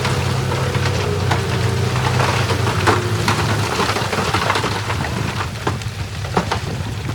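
Rushing, churning river water with rocks knocking and clattering into it, over the low hum of a heavy diesel engine that fades out a little past halfway.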